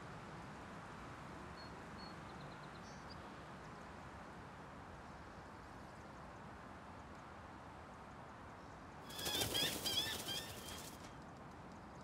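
A bird flutters past about nine seconds in, with a couple of seconds of wingbeats mixed with quick chirping calls, over a soft steady hiss of outdoor ambience. A few faint high chirps come earlier, about two seconds in.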